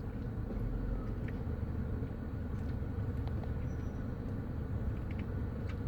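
Steady low rumble of a vehicle engine or nearby road traffic, with a few faint ticks.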